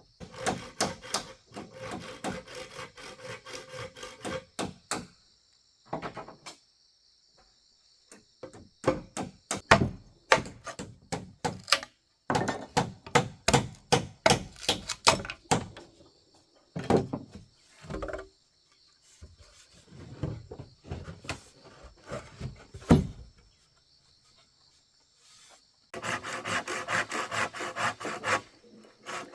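Wood being worked by hand: bursts of quick, rhythmic scraping strokes, several a second, broken by short pauses. A steady high insect chorus runs underneath.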